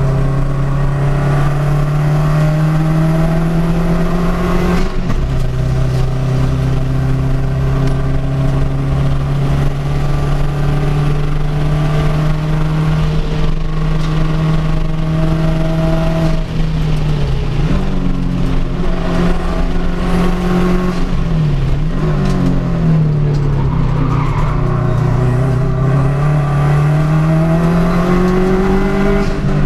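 Race car engines running hard, their pitch climbing as they accelerate and dropping sharply about five seconds in as the throttle comes off. In the middle stretch more than one engine is heard at different pitches, and near the end the pitch climbs again.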